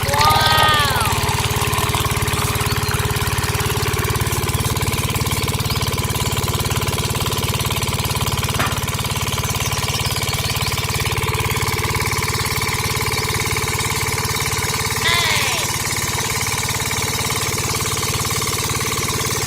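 A small motor running steadily with a fast, even pulse and a few constant whining tones, from a homemade mini tractor machine. A short voice-like call is heard at the start and again about 15 seconds in.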